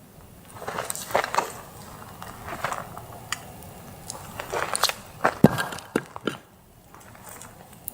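Footsteps and movement crunching over leaf litter and twigs, in irregular bursts with a few sharp snaps about five and six seconds in.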